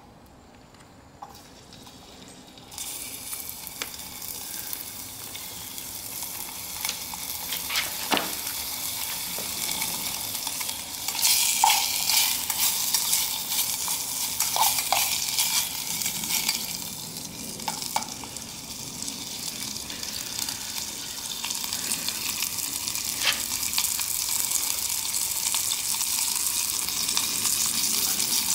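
Diced Spam sizzling as it fries in hot oil in a stainless steel cup. The sizzle starts a few seconds in and grows louder partway through, with a spoon scraping and clinking against the cup now and then as the cubes are stirred.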